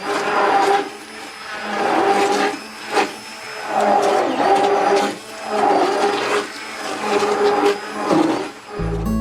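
Electric mixer blending a batch of liquid wash ingredients, its sound swelling and easing about once a second.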